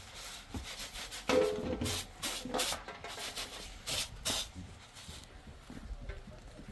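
A series of rough scraping or rubbing strokes, about half a dozen, bunched in the middle.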